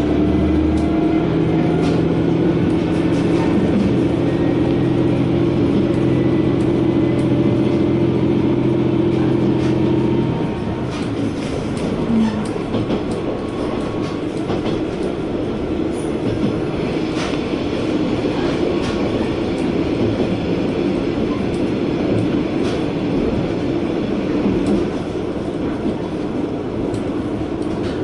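Diesel railcar heard from inside the cabin, its underfloor engine pulling with a steady drone for about ten seconds. Then the throttle is shut and the engine note drops away abruptly, leaving the car coasting with the rumble of wheels on rail and occasional clicks over rail joints.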